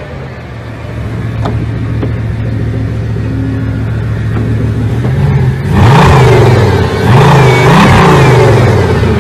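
Supercar engine idling steadily just after starting, then blipped in a series of sharp revs about five to eight seconds in.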